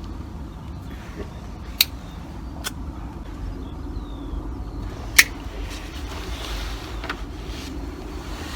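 Air rifle being zeroed: two light mechanical clicks about two and three seconds in, then one sharp shot about five seconds in, over a steady low outdoor rumble.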